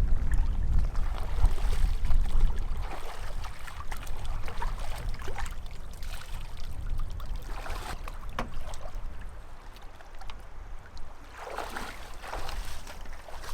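Lake water sloshing and splashing in irregular surges every few seconds, over a low rumble that is strongest in the first few seconds.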